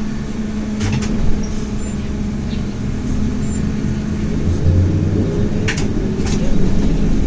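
ZiU-682 trolleybus running, heard from inside: a steady low rumble of the drive and road, with a low hum that fades after a few seconds. Sharp rattling knocks come about a second in and twice near the end.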